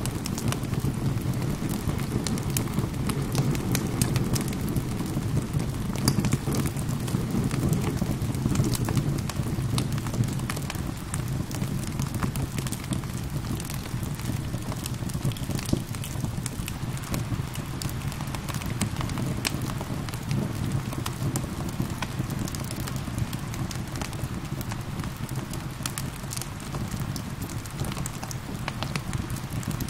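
Wood fire crackling with frequent sharp pops and snaps over a steady wash of rain.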